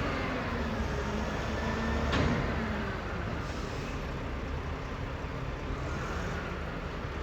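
Heavy truck engine running, its pitch falling in the first second as the revs drop. A short sharp burst of noise comes about two seconds in, then a steady low rumble.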